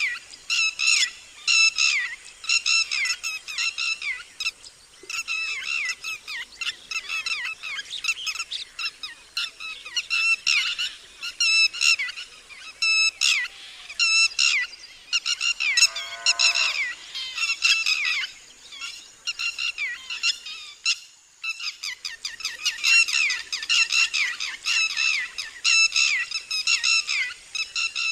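Red-wattled lapwing giving its loud alarm call: rapid runs of harsh, shrill notes, each dropping slightly in pitch, repeated many times a second, with a short pause about three quarters of the way through before the calling starts again.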